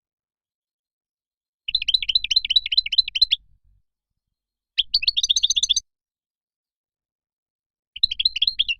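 European goldfinch singing: three short phrases of rapid twittering notes, each about a second long, with clean silent gaps between them, the last one running on past the end.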